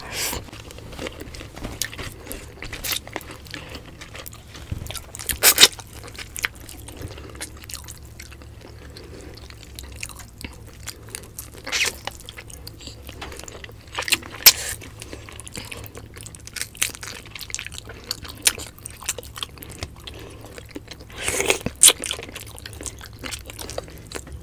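Close-miked chewing and mouth sounds of people eating grilled tilapia and rice with their hands, with scattered sharp clicks and smacks every few seconds.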